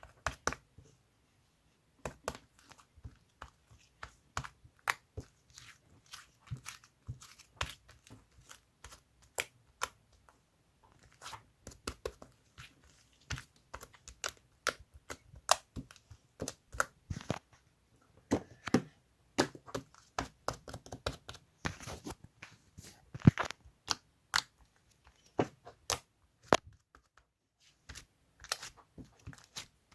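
Slime being kneaded and squeezed by hand, giving off an irregular run of sharp clicks and pops, with a short pause near the end.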